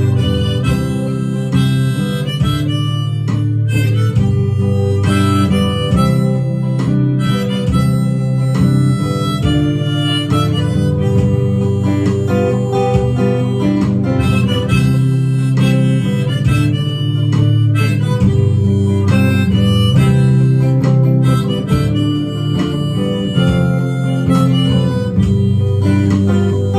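Harmonica solo played over a strummed acoustic guitar, an instrumental break in a folk song.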